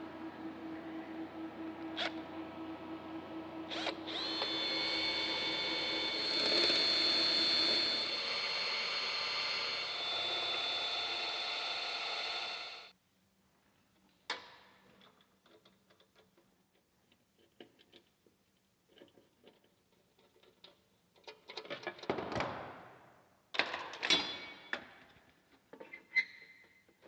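Electric drill running steadily, then louder with a high whine from about four seconds in, and stopping abruptly about thirteen seconds in. Light clicks, knocks and a few short rustling bursts follow.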